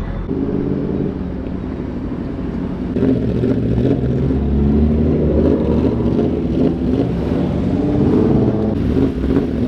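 Car engine running with road noise, growing louder about three seconds in.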